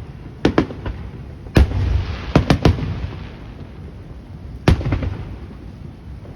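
Aerial fireworks shells bursting: about seven sharp bangs in quick clusters, each trailed by a low rumble.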